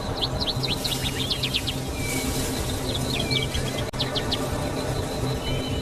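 Birds chirping in three quick runs of short, falling notes, over a steady high insect drone and a low, even music bed.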